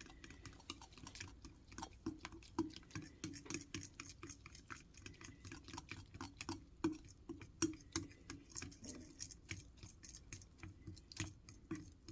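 Pancake batter being whisked by hand in a bowl: quick, uneven clicking and tapping of the whisk against the bowl.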